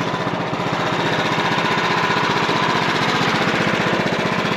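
Wood-Mizer portable band sawmill running steadily, its engine pulsing at an even pace with a faint steady whine above it, while the band blade cuts a board off a pine log.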